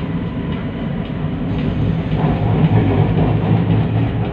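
Metro train running, heard from inside the car: a steady low rumble of wheels and motors that grows louder about two seconds in.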